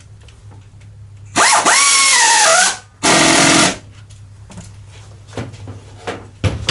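A handheld power tool running in two bursts, the first about a second long and the second shorter. Its whine rises as it spins up, then drops as it takes load.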